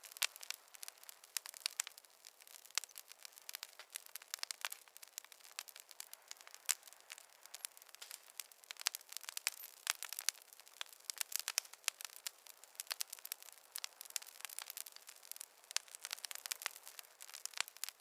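Wood fire crackling in a fireplace: a steady run of sharp, irregular pops and snaps over a faint hiss.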